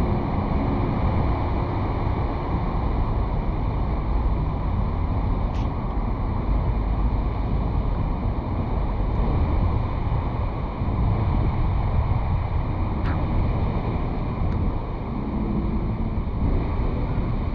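Steady wind and road rumble of a Chevrolet Malibu driving, picked up by a GoPro mounted on the car's roof, with a couple of faint ticks.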